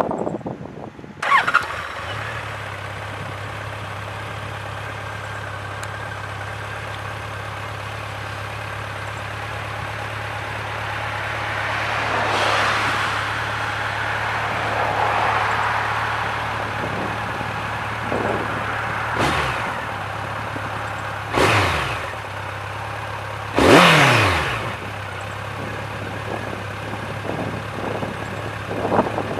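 Honda CB1100 EX's air-cooled inline-four engine starting about a second in and settling into a steady idle through its exhaust. Several quick throttle blips come in the last third, each a brief rise and fall in pitch.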